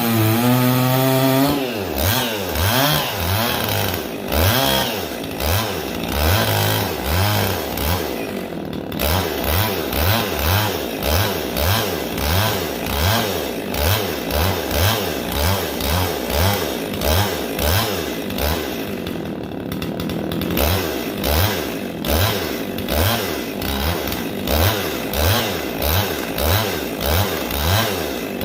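A chainsaw chain being sharpened by hand with a file: steady rasping strokes of file on steel, a little over one a second, each with a brief rising-and-falling pitch. A steady pitched hum is heard at first and stops about a second and a half in.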